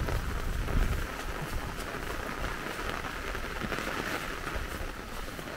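Steady hiss of rain falling on wet ground and vegetation, with a low rumble during the first second.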